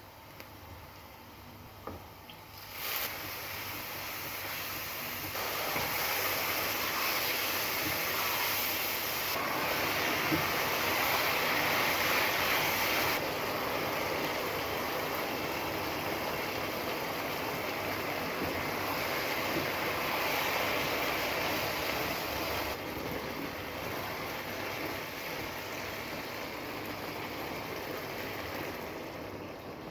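Food sizzling in a frying pan as it cooks, a steady hiss that starts about three seconds in after a short knock, grows louder, then eases toward the end.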